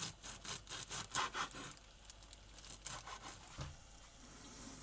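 Quick rubbing and scraping strokes of stirring and handling in a cooking pan, then a single thump past three and a half seconds in, with a steady hiss setting in near the end.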